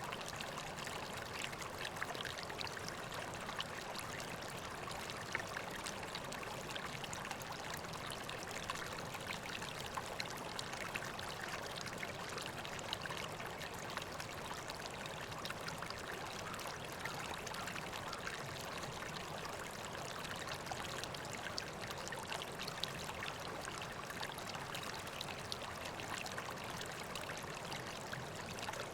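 River water flowing and splashing steadily over rocks, a constant rushing with many small splashes.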